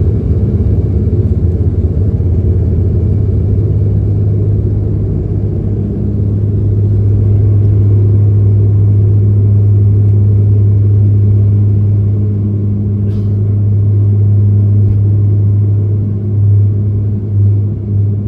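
Steady low drone of a vehicle engine. It grows a little louder about six seconds in and wavers near the end.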